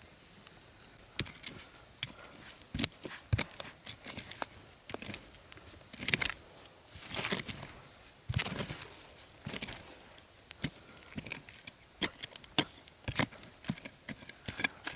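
Irregular light knocks and clicks with short rustling scrapes, the sound of hands handling and working materials.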